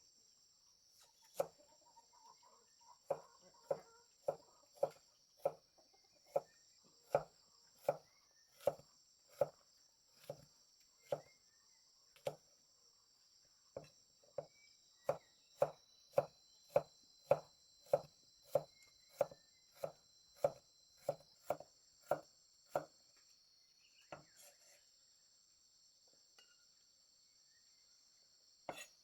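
Repeated chopping strokes, about one and a half a second, with a short pause partway through; they stop a few seconds before the end. Insects chirr steadily throughout.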